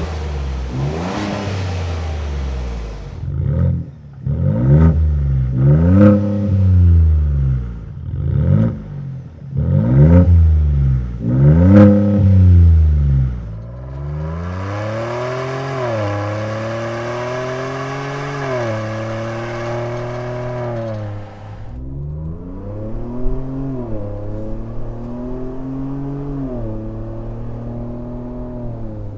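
Ford Bronco fitted with a RedRock axle-back exhaust with a small straight-through muffler, revved in about six short blips, each rising and falling in pitch. Then a longer pull with the pitch climbing in steps and dropping between them, and finally running more gently with small swells in pitch.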